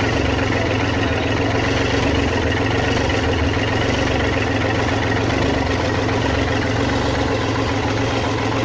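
Freshly overhauled Kubota L3400 tractor diesel engine idling steadily.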